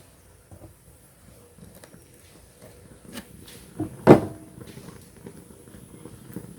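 Kitchen utensils handled against a metal cooking pot: a few light knocks, then one loud knock with a short ring about four seconds in.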